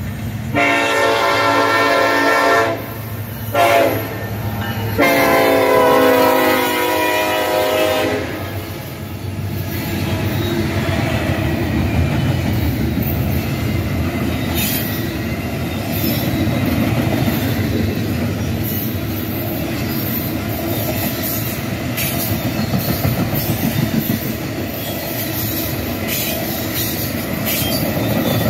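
Freight locomotive air horn sounding a long blast, a short one and another long one, then the train's double-stack container well cars rolling past, wheels clicking over the rail joints.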